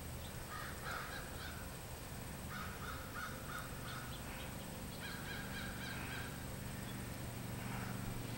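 Faint bird calls in three or four short runs of repeated notes, over a steady low hum.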